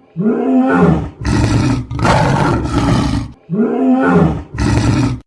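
Dinosaur roar sound effect: a pitched call that rises and falls, then long, rough roars; the sequence repeats about three and a half seconds in.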